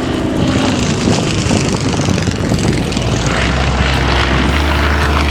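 Yakovlev Yak-50 aerobatic plane's nine-cylinder radial engine and propeller running, a steady noise with a deep hum that grows stronger and steadier about three seconds in.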